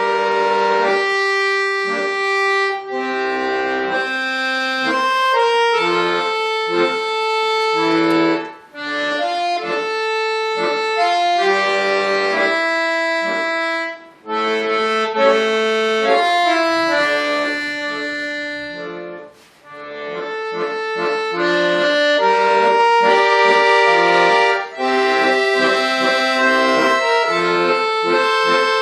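Bayan (Russian button accordion) playing a melody over sustained chords. It pauses briefly between phrases three times.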